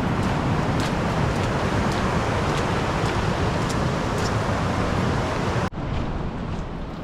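River Tees rushing over waterfalls and cascades, a loud, steady wash of water noise from a river in spate with snowmelt. About three-quarters of the way through it cuts off abruptly and comes back as a quieter rush.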